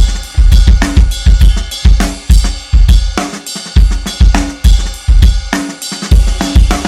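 Drum kit playing on its own in a recorded rock track: kick drum, snare and cymbals in a steady beat of sharp hits.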